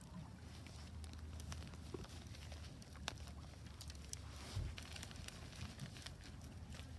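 Wood fire crackling in a Solo Stove Ranger fire pit: irregular sharp pops and snaps, with a louder knock about four and a half seconds in, over a low steady rumble.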